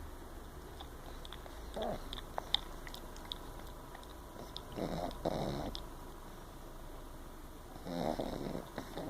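French bulldog puppy snoring in its sleep: a short snore about two seconds in, a longer double snore around five seconds, and another near the end, with a few faint clicks between.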